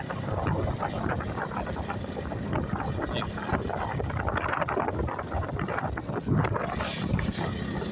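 Motorcycle engine running at low speed while riding, with wind buffeting the microphone.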